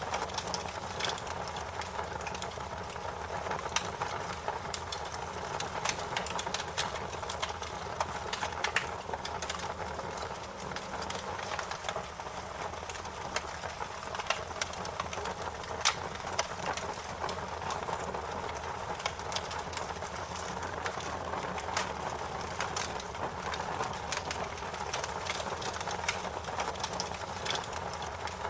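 Fire crackling: a steady low rushing with frequent sharp snaps and pops at irregular intervals.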